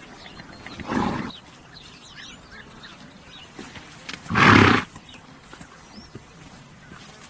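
Horse blowing air out noisily twice, a short blow about a second in and a louder, longer one a few seconds later.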